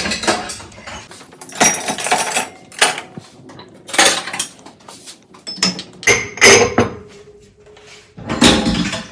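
Pots and dishes clattering as they are set into dishwasher racks: a run of separate knocks and clinks, with a brief metallic ring after a knock around two thirds of the way through.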